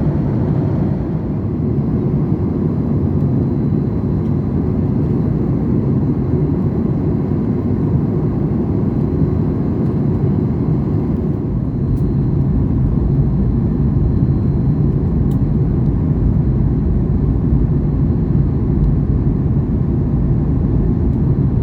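Steady low rumble of a Boeing 737 MAX 8 in flight, its engines and the airflow around the fuselage heard from the cabin, with a faint high steady tone over it.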